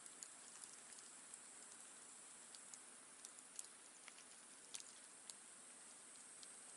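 Faint wood campfire crackling: sparse, irregular small pops and ticks over a steady soft hiss.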